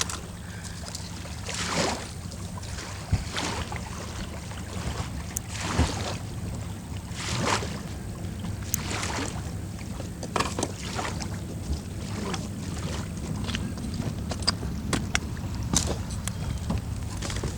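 Small waves lapping and splashing irregularly against the bank, over a steady low rumble of wind on the microphone.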